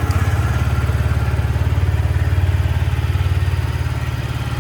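Yamaha YZF-R125's 125 cc single-cylinder four-stroke engine idling steadily just after starting.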